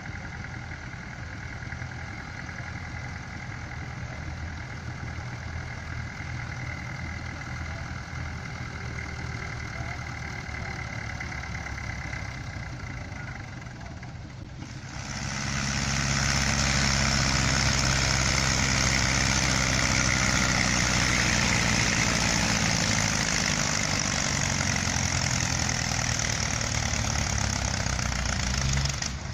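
Tractor engine running steadily at low revs. About halfway through, it jumps to a much louder full-power run while pulling a load of concrete slabs, and holds there until it drops away near the end.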